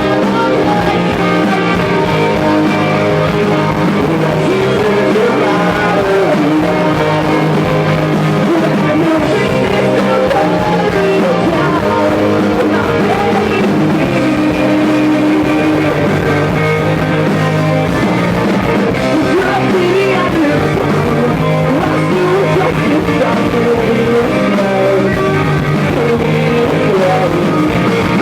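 Live rock song: a man singing over guitar accompaniment.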